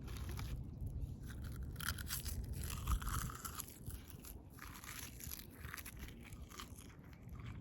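Close-up crunching and chewing of crisp dried seaweed snack, in irregular bursts of brittle crackles as it breaks apart in the mouth, over a steady low hum.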